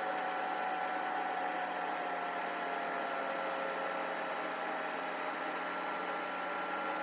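Faint, steady machine hum with a few held tones, one of them sliding slowly lower in pitch.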